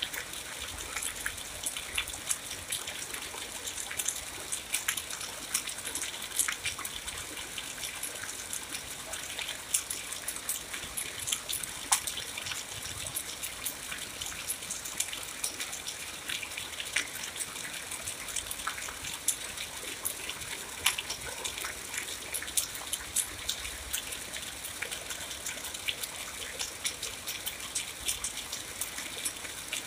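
Steady rain: a high hiss dotted with many sharp, close drop hits.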